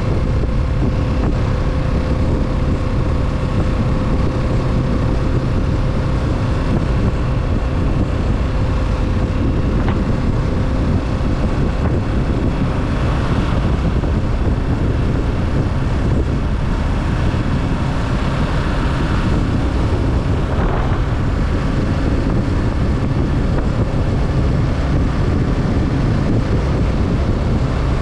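2020 Kawasaki Z650's parallel-twin engine running steadily while riding, with wind noise on the microphone.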